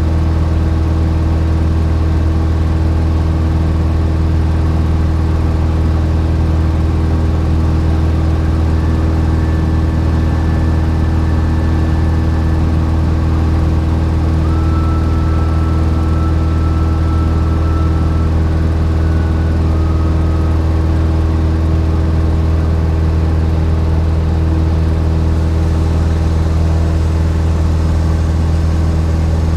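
Cessna 172's piston engine and propeller droning at a steady pitch and level, with faint higher whines coming and going in the middle.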